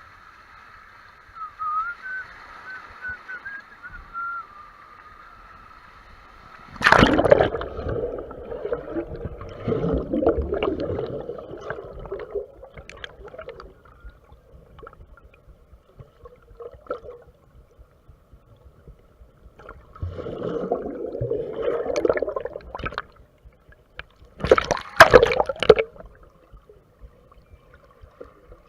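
Water splashing and sloshing around a raft on a water-park raft ride. A sudden loud splash comes about seven seconds in, followed by several seconds of churning water. More splashing follows later, with sharp bursts of spray near the end.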